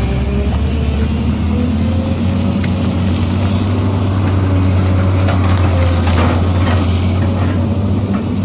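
Excavator's diesel engine running steadily with a deep drone and a faint whine that wavers in pitch, and a few faint clatters in the second half.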